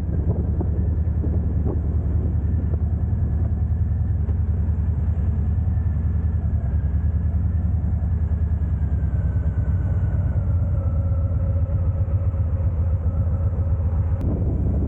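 Harley-Davidson V-twin motorcycle engine running steadily while riding, a constant low rumble.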